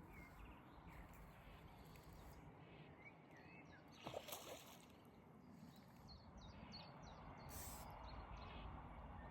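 Faint lakeside ambience: small birds chirping now and then over a low, steady rumble of wind, with one brief knock about four seconds in.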